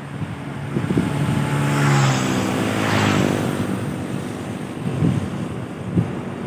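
A heavy road vehicle's diesel engine and tyres passing close by. It grows louder over the first two seconds, is loudest about three seconds in, then fades away.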